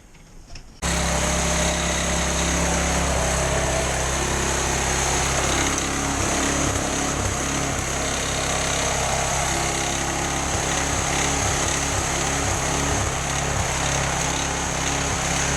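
Snowblower running steadily, cutting in suddenly about a second in.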